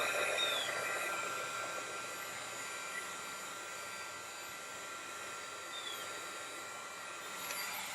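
Electric hot-air blower running steadily, warming a 1/5-scale RC truck's two-stroke engine before break-in.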